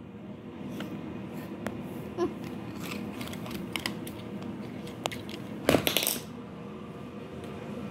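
Small hard toys being handled, with scattered light clicks and taps and a short clattering rattle a little before the end.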